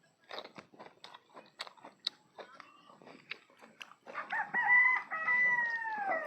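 Crunchy chewing and biting of food, then about four seconds in a rooster crows once: one long call, the loudest sound, dropping in pitch at the end.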